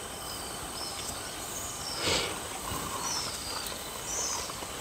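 Outdoor evening ambience: a steady high insect drone with short, high, falling chirps repeated every second or so. A brief louder rustle about two seconds in.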